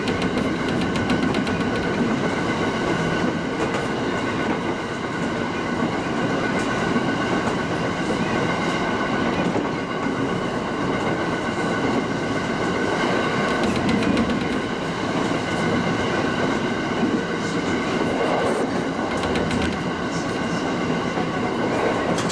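Local electric train running at speed, heard from the front of the car: a steady running rumble with a constant whine, and the clickety-clack of wheels over rail joints.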